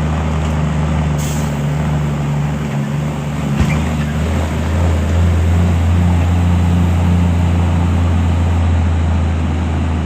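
Heavy diesel engine running steadily with a low drone that grows louder about halfway through. A short hiss comes about a second in and a sharp click about three and a half seconds in.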